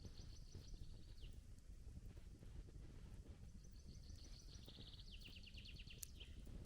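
Faint songbird singing twice over a low steady background hush: a short phrase about a second in, then a longer one past the middle that ends in a quick descending trill.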